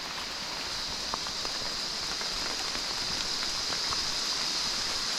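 Rain falling steadily, with scattered drop ticks and a constant high-pitched hum that grows slightly louder.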